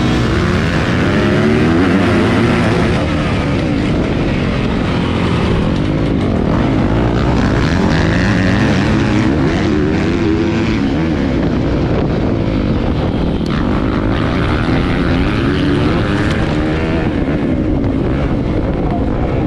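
Motocross bike engines running hard, their note rising and falling over and over as the bikes rev up and back off.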